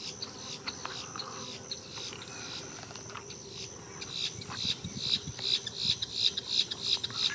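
Wetland wildlife sounds: a steady high insect hiss, with a run of short, rapid chirps that speeds up and grows louder from about halfway through.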